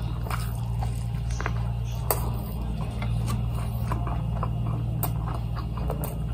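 A person chewing a mouthful of tuna burrito with the mouth closed: soft wet squishing and small smacking clicks, scattered unevenly. A steady low hum runs underneath.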